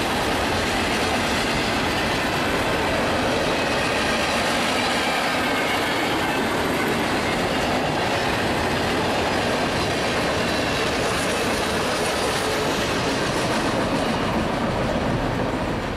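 Freight cars of a long manifest freight train rolling past: a steady rumble and clatter of steel wheels on the rails, easing slightly near the end.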